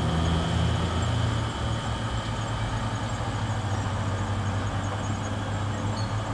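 Bulldozer's diesel engine running steadily, its low engine note easing slightly about a second and a half in.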